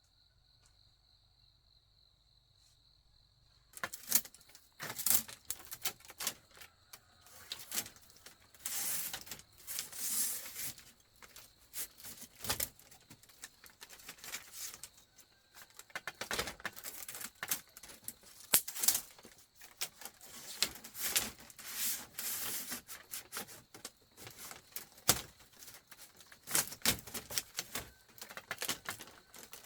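A faint steady insect trill, cut off about four seconds in by a long run of irregular clicks and clatters, like hard material being handled and knocked together.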